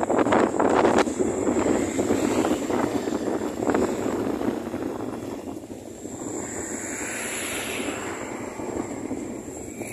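Strong gusty wind blowing hard across the microphone, loudest in the first few seconds and easing off after about five seconds, with a rushing swell later on.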